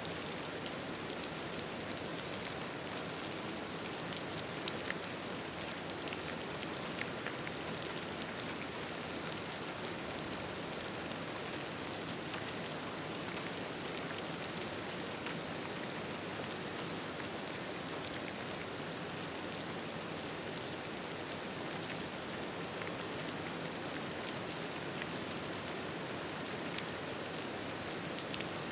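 Steady rain: an even hiss with scattered small ticks.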